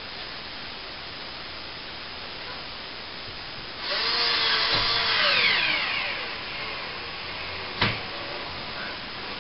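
Cordless drill driving a screw up into a plaster ceiling, running for about two seconds from around four seconds in with its pitch sliding down as the motor slows, typical of a battery going flat. A single sharp click follows near the end.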